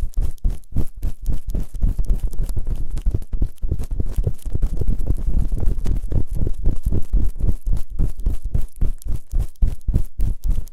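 Rapid rubbing and scraping strokes on a binaural microphone's ears, ASMR ear-cleaning sounds. They come several a second, deep and rumbling.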